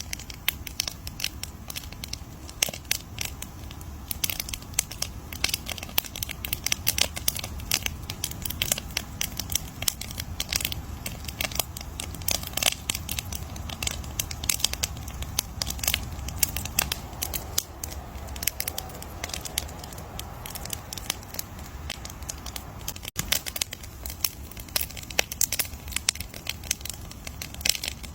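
Wood campfire crackling, with many irregular sharp pops and snaps over a low steady rumble. A split-second gap in the sound about 23 seconds in.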